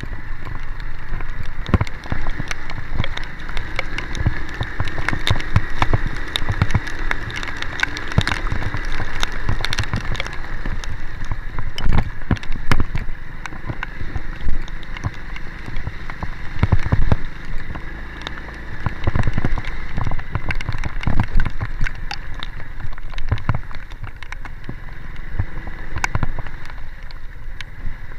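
Heavy rain, raindrops pattering and ticking close to the microphone over the steady low rumble of a vehicle on the move, with knocks and jolts scattered throughout.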